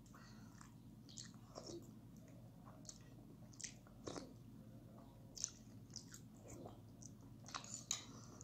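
Faint eating sounds close to the microphone: soft chewing and mouth smacks at irregular intervals, a little louder near the end.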